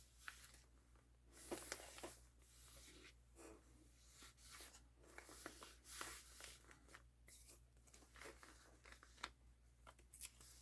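Faint paper handling: soft rustling and scratching of paper, with a few small taps, as a journal page is worked on.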